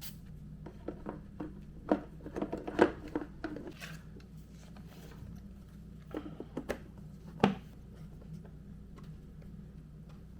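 Scattered light clicks and taps of small parts being handled on a workbench, in two short clusters with a sharper knock near the middle and another a few seconds later, over a steady low hum.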